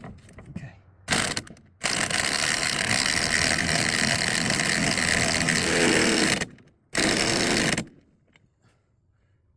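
Power wrench running in three bursts: a short one, a long steady run of about four and a half seconds, then a short one. It is driving the nut on a threaded pressing tool to press the wheel hub into a new front wheel bearing.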